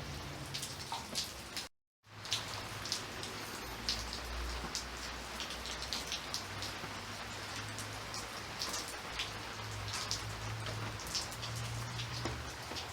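Steady rain, with many individual drops striking a surface over a continuous hiss and a faint low hum underneath. The sound cuts out completely for a moment just under two seconds in, then resumes.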